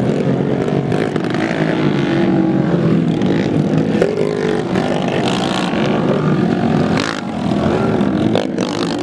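Several racing motorcycle engines revving, their pitch rising and falling as they ride the dirt track.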